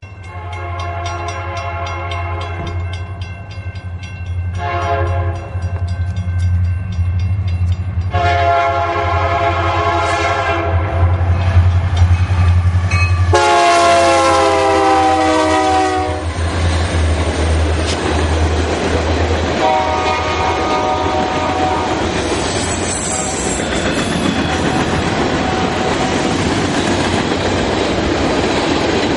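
Union Pacific diesel freight locomotives sounding the air horn for a crossing: four blasts, long, short, long, long, over a low engine rumble. As the locomotives pass, the horn ends and the steady rolling clatter of the freight cars' wheels on the rails takes over.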